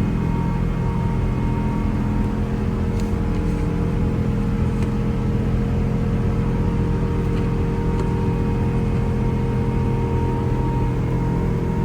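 Steady in-flight cabin drone of a Boeing 777 airliner: engine hum and airflow noise with a few fixed low tones, unchanging throughout. A few faint ticks come in the middle.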